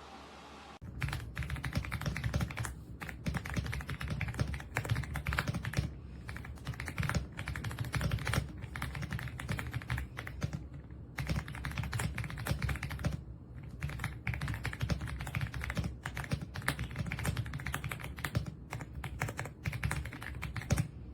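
Fast typing on the EPOMAKER x Aula F75 gasket-mounted mechanical keyboard: a dense run of keystrokes starting about a second in, with a few brief pauses, cutting off suddenly at the end.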